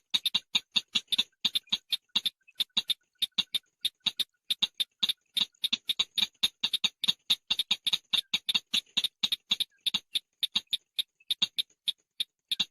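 Call of the bird known in Vietnamese as chàng nghịch: a long, steady run of short, sharp, chattering notes, about four to five a second.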